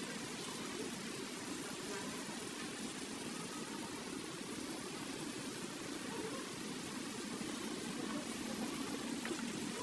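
Steady hissing background noise with no distinct events, strongest in a low band.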